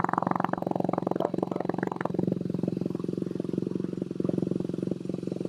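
BMW motorcycle engine running through an aftermarket exhaust, under a little throttle at first, then settling back to a steady idle about two seconds in.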